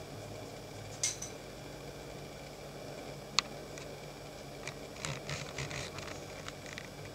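Great spotted woodpecker pecking at a bird-nut feeder: a single tap about a second in, a sharp tap near the middle, then a quick run of lighter taps over a steady low hum.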